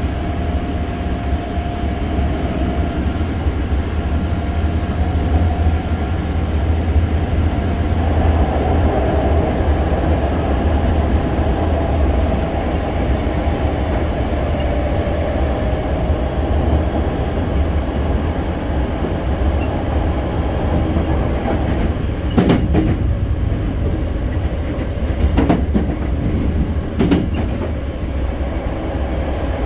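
A Hankyu 6300 series electric train car running at speed, heard from on board: a steady, heavy low rumble of wheels on rail with a steady hum over it. In the last third come a few sharp knocks as the wheels pass over the track.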